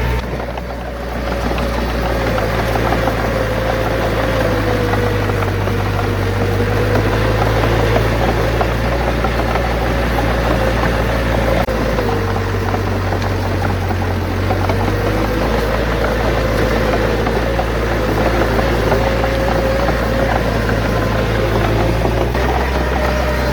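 Bulldozer's diesel engine running steadily, its pitch wavering slightly up and down, with a brief dip just after the start and a sudden shift in tone about halfway through.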